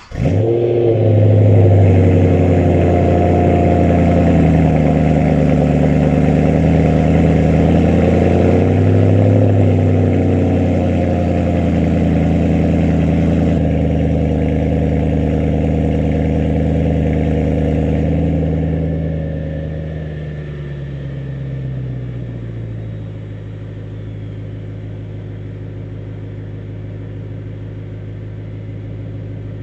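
BMW E93 M3's 4.0-litre naturally aspirated V8, through an exhaust with the four-pipe mod, starting from cold and running at a ridiculously loud, raised cold-start idle. About twenty seconds in the cold start comes off and the engine drops to a much quieter, lower steady idle.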